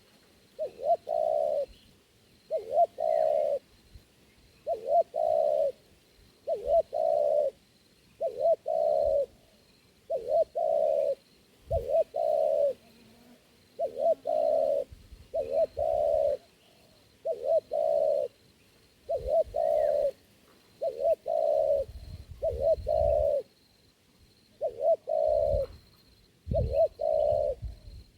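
Spotted dove (tekukur) cooing over and over, roughly one phrase every two seconds, each phrase a quick double note and then a longer note, with a few low thumps underneath.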